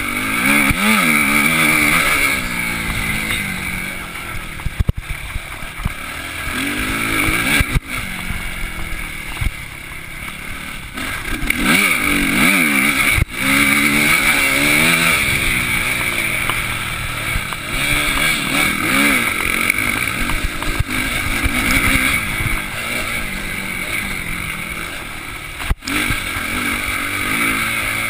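Suzuki RM-Z250 motocross bike's single-cylinder four-stroke engine, heard close up from the handlebars, revving up and dropping back again and again while the bike is ridden around a dirt track. A few sharp knocks cut through it.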